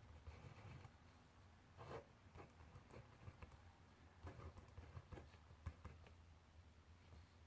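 Faint handwriting on paper: scattered short scratches and small taps of a pen or pencil tip.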